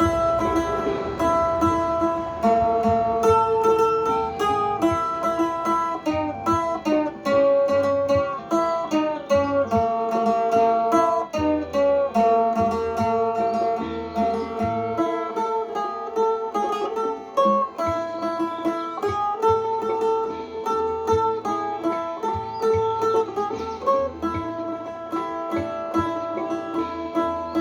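Seung, the northern Thai plucked lute, playing a quick melody of single plucked notes over a low bass line.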